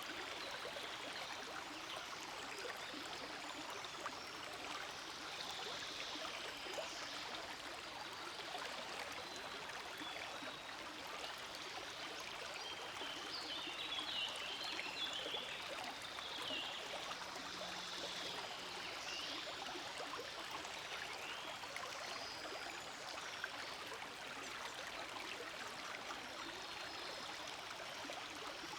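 Forest stream flowing steadily over rocks, an even rushing and trickling of water, with scattered high chirps in the background, most of them around the middle.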